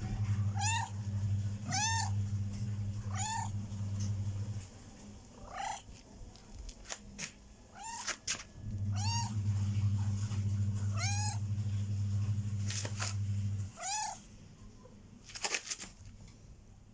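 A cat meowing over and over in short, high, rising-and-falling calls, roughly one every second or two. Under it a steady low hum stops and starts twice, and a few sharp clicks come in the middle and near the end.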